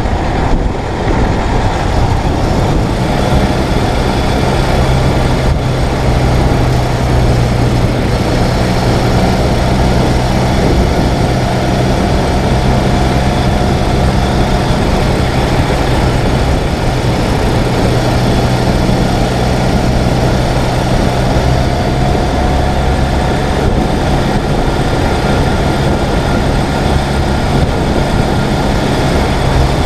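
Ural sidecar motorcycle's flat-twin engine running at a steady pace under way, with a constant rush of wind and road noise.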